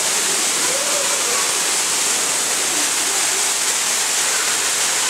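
Artificial waterfall pouring into a pool, a steady, even rush of falling water.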